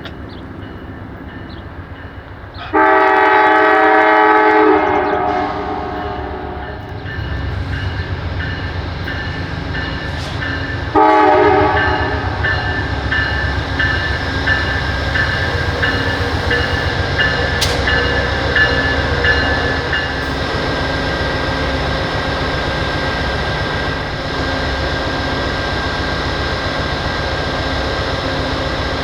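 Locomotive air horn sounding a long blast about three seconds in and a short one about eleven seconds in, followed by the steady rumble of the train rolling past, with a bell ringing at an even pace until about two-thirds through.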